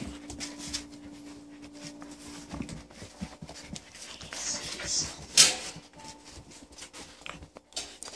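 Eight-week-old standard poodle puppies panting and snuffling, with scattered scuffling clicks and a short loud noisy burst about five seconds in.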